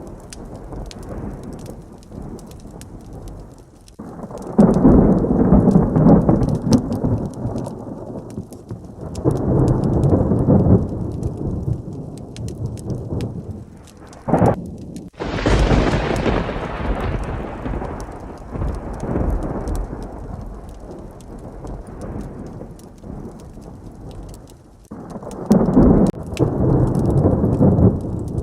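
Steady heavy rain with repeated thunder. There are low rolling rumbles about four seconds in and again around ten seconds. About fifteen seconds in, a sharp crack and a loud clap fade away over several seconds, and another roll comes near the end.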